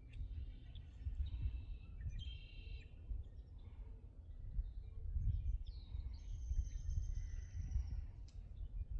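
Wild birds singing in a marsh: a few short chirps and trills, then a long high thin note lasting about two seconds, over a constant low rumble.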